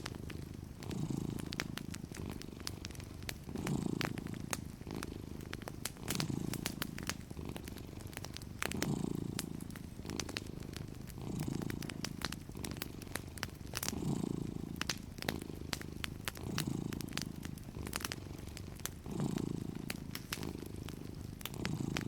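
Domestic cat purring steadily, the purr swelling and easing with each breath every second or so. Sparse fireplace crackles pop over it throughout.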